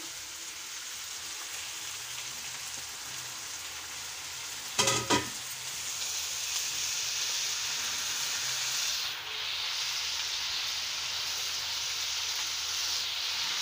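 Tripe, onions and spice paste frying in a wok, sizzling steadily as chopped tomatoes go in and are stirred through with a spatula. The sizzle gets louder about six seconds in, just after a short loud knock.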